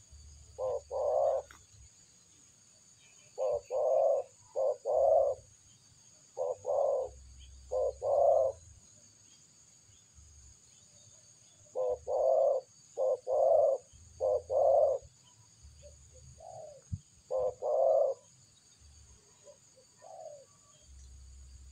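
A dove cooing in repeated groups of short, low notes, two to six notes per group, with pauses of a few seconds between groups.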